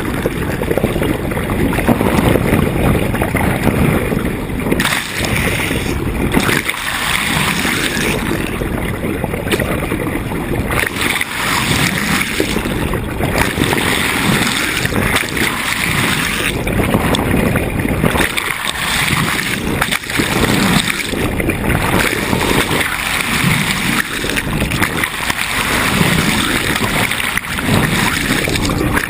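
Water rushing and splashing along a sailboat's hull under way, rising and falling in uneven surges.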